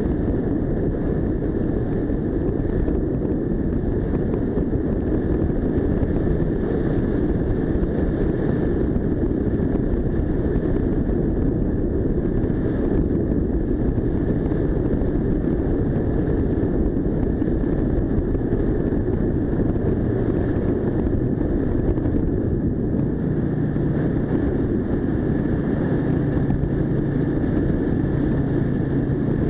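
Mash Cafe 400 motorcycle ridden at steady speed: the single-cylinder engine runs under a constant rush of wind and road noise. A low steady hum comes up about two-thirds of the way through.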